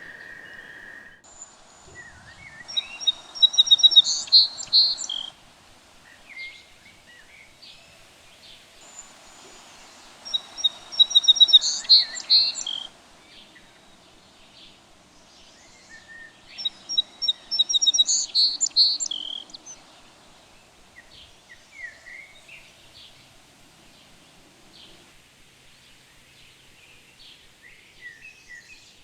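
A songbird repeating the same phrase three times, about six to seven seconds apart, each a quick run of high repeated notes lasting about three seconds. Softer chirps from other birds come in between.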